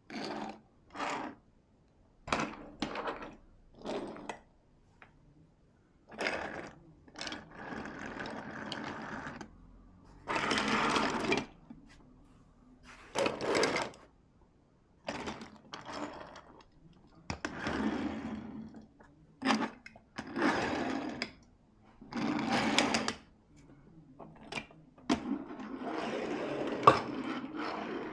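Die-cast toy cars and a plastic track set clattering: quick clicks and knocks, then repeated runs of rolling, rattling noise lasting a second or two each.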